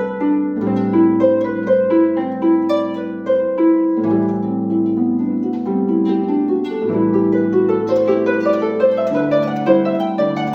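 Solo harp playing, plucked notes in a flowing melody over ringing bass notes, with the strings left to sound on.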